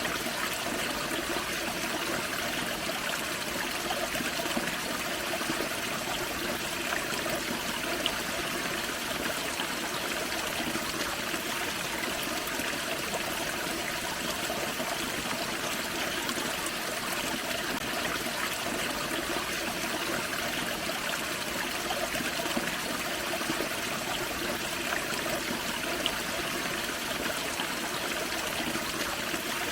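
Small forest creek waterfall, water splashing and trickling steadily over rocks.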